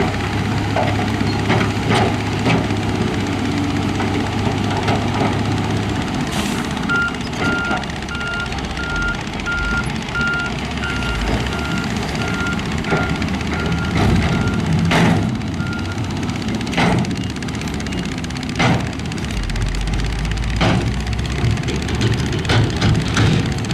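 Diesel heavy construction machine running, with its reversing alarm beeping at one steady pitch about twice a second for roughly nine seconds in the middle. Scattered sharp metallic clanks and knocks of rock and steel over the engine noise.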